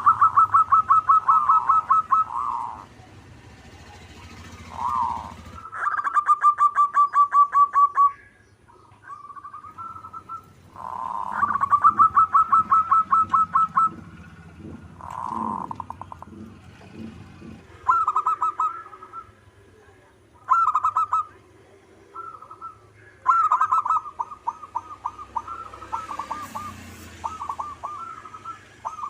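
Zebra dove (perkutut) cooing: repeated phrases of rapid staccato coos, each phrase lasting two to three seconds, with short pauses between them.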